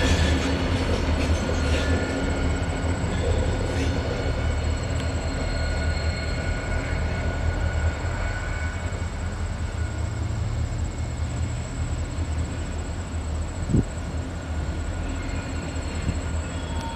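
Freight train cars rolling on the rails: a steady low rumble that slowly fades, with thin wheel squeal that dies away after the first few seconds.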